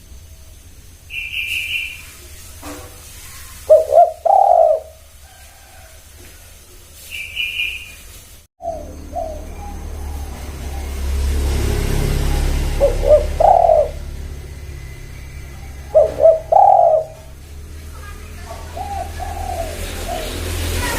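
Spotted doves (tekukur) cooing: repeated low, rhythmic coo phrases, the loudest about four seconds in, around thirteen seconds and around sixteen seconds, with softer ones between. Two short, higher chirps come near the start and about seven seconds in, and a steady low background noise gets louder after a break about halfway through.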